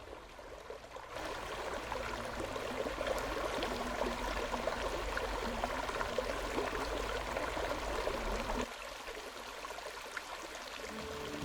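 Stream water flowing steadily, getting quieter about three-quarters of the way through.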